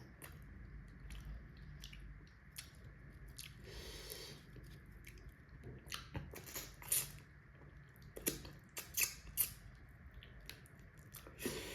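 A person chewing food close to the microphone, with soft wet mouth clicks and smacks that come thicker in the second half, and a brief breathy sound about four seconds in.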